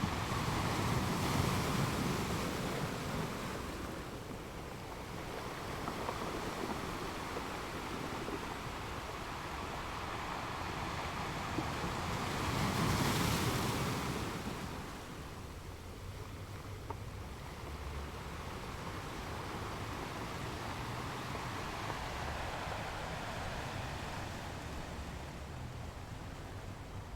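Ocean waves washing in and out, a steady rush that swells with two louder surges, one about a second in and a stronger one roughly halfway through.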